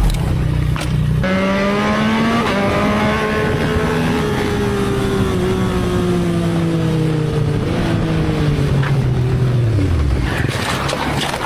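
Motorcycle engine running, its pitch rising slightly and then falling slowly for several seconds as the bike slows, with a sharper drop near the end.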